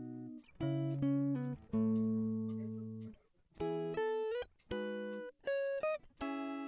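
Background music: plucked guitar notes in a slow, gentle melody.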